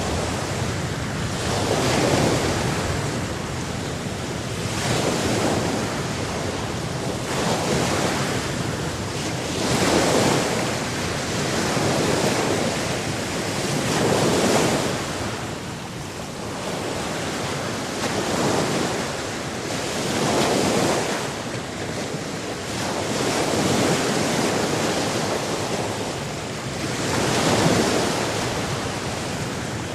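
Sea surf washing onto a shore, the rushing water swelling and fading every two to three seconds.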